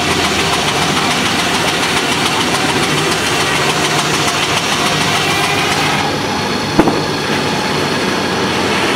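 Sawmill machinery running steadily, a dense mechanical din; the higher hiss eases about six seconds in, and a single sharp knock comes just before seven seconds.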